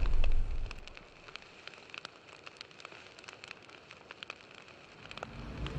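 Yamaha FZ1 motorcycle sound dying away within the first second, leaving a quiet stretch of faint, scattered ticks and crackles; the level rises again near the end.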